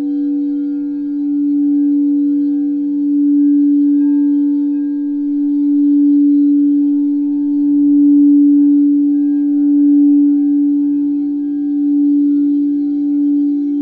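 Singing bowl sounding one sustained low tone with faint overtones, swelling and fading slowly in waves, with no fresh strikes.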